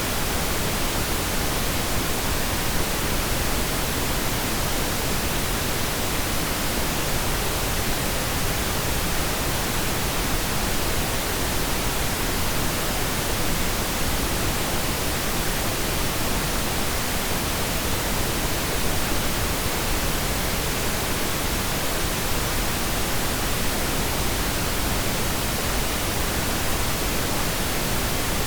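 Steady pink noise: a constant, even hiss with no change or events.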